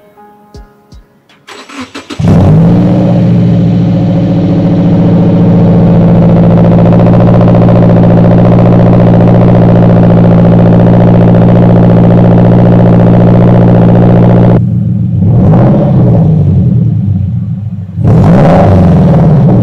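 A 2015 Subaru Impreza's flat-four engine cranks and starts through an Invidia R400 catback exhaust about two seconds in, then idles steadily with a deep rumble. Near the end it is revved twice, the pitch rising and falling each time.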